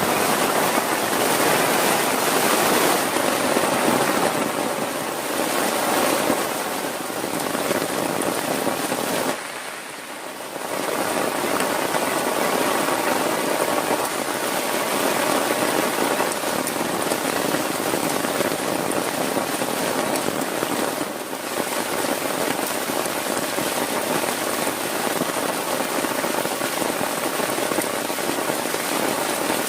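Heavy rain falling in a dense, steady hiss, dropping away sharply for about a second some ten seconds in before coming back just as heavy.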